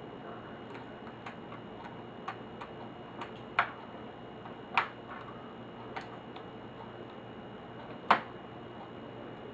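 Light, irregular clicks and taps of small plastic and metal parts and tools being handled while a laptop is taken apart, with three sharper clicks standing out.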